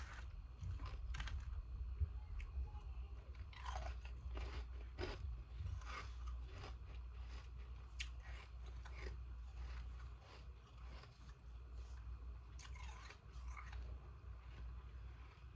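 Ice from the freezer being bitten and chewed: irregular crisp crunches and cracks close to the microphone, over a steady low hum.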